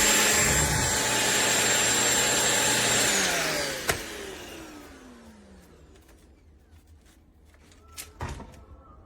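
Shark PowerDetect corded stick vacuum running steadily with a high whine, then switched off about three seconds in: the motor winds down, its pitch falling as it fades over a few seconds. A sharp click comes about a second after the switch-off, and a few faint knocks near the end.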